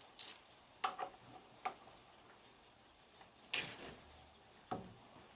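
Five short, scattered metallic clinks and knocks of workshop tools being picked up and handled, about a second apart, with a longer clatter a little past halfway.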